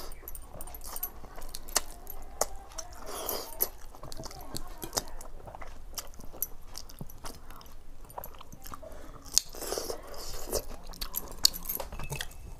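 A person chewing and smacking on mouthfuls of pakhala (watered rice) eaten by hand, with many small sharp clicks and crunches throughout.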